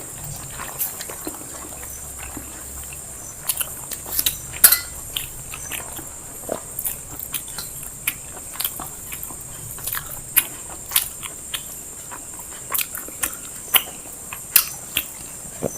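People chewing and eating biryani, with many wet mouth smacks and clicks coming at an irregular pace.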